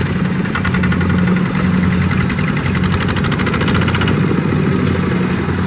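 Small Kubota tractor's engine running steadily at a constant speed.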